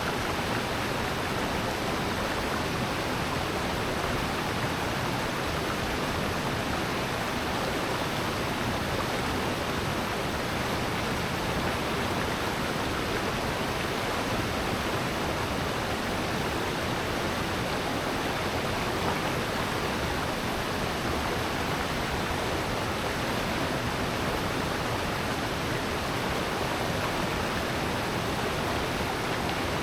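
Water rushing down a rocky valley stream with small falls, a steady, even rush with no change.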